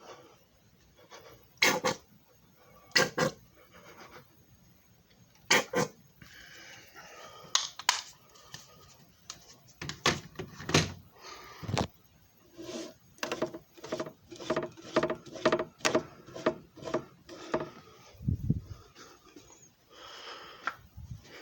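Hard plastic clicks and knocks from handling a JFJ Easy Pro disc repair machine, irregular at first, then a quick even run of about two clicks a second in the middle and a dull thump near the end.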